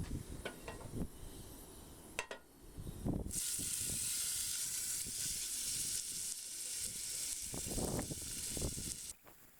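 Steak sizzling on a hot forged iron plate: a loud, even hiss that starts suddenly a few seconds in and cuts off abruptly shortly before the end. Before it come a couple of light clinks and handling knocks.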